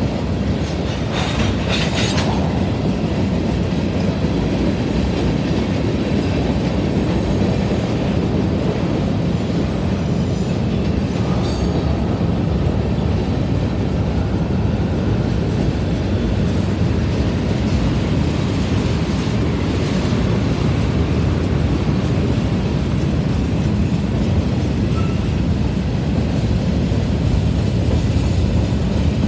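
Freight cars of a manifest train, tank cars and covered hoppers, rolling past with a steady rumble of steel wheels on rail. A few sharp clanks come about two seconds in, and again around ten seconds.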